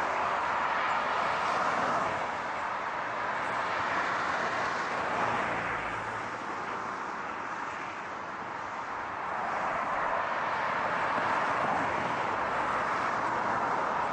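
Steady rush of passing car traffic and tyre noise, easing off about eight seconds in and building again toward the end.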